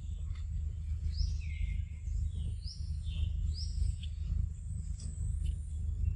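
A bird calling: three or four short, high rising notes between about one and four seconds in, over a steady low rumble.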